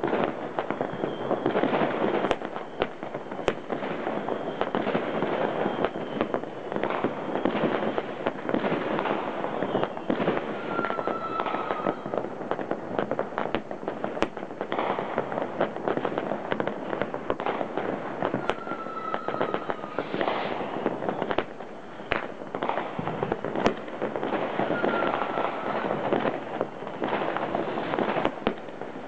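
Fireworks and firecrackers going off without a pause, a dense crackle of many bangs overlapping. About four times a short, slightly falling whistle of a whistling rocket cuts through.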